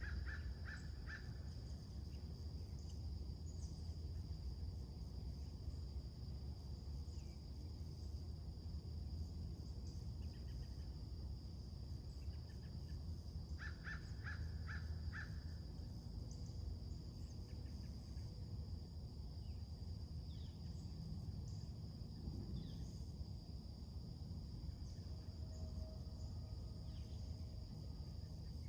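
A crow cawing in two short series, about four caws right at the start and five more around the middle. Under them are a steady high insect drone and a constant low outdoor rumble, with a few faint chirps of other birds.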